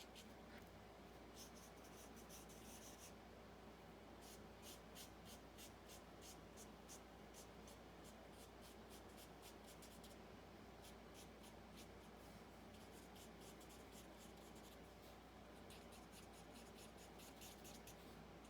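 Faint, quick strokes of a Stampin' Blends alcohol marker colouring on cardstock, in runs of rapid strokes broken by short pauses.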